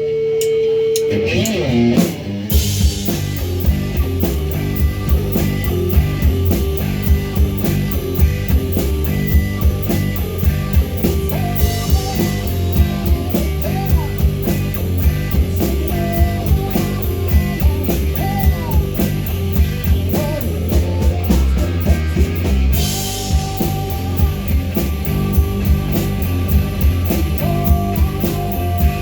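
Live rock band playing: electric guitar, bass and drum kit. A single guitar note rings at first, then the full band comes in with a steady drum beat about two seconds in.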